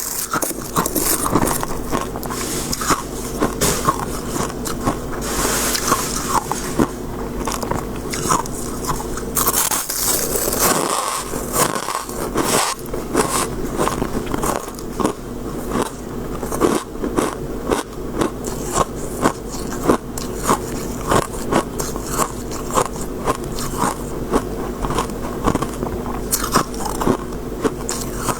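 Close-miked biting and chewing of crisp freezer frost, a continuous run of sharp crunches.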